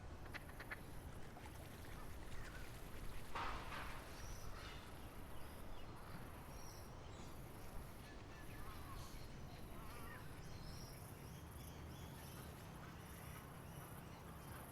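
Birds chirping in short scattered calls over a high, steady insect trill that breaks off briefly every second or so, with a low rumble beneath.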